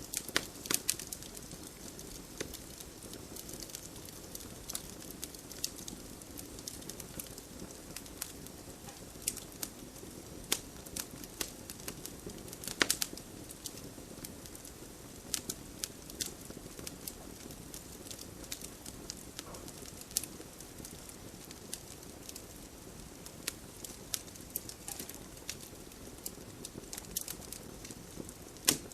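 Campfire crackling: irregular sharp pops and snaps, a few a second, over the steady low rush of the burning fire.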